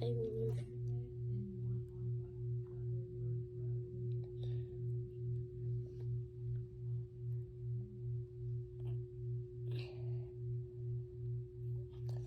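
A steady low hum pulsing about two and a half times a second, with a thin steady higher tone over it. Beneath it are faint soft squishing sounds of a cookie-dough slime being stretched by hand, a little louder twice.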